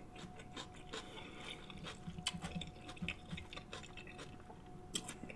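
Faint close-miked chewing of a mouthful of seafood: soft mouth clicks and smacks.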